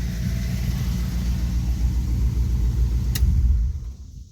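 1973 Dodge D100 pickup engine idling with a steady low rumble, with one sharp click a little over three seconds in. The engine sound cuts off abruptly about four seconds in.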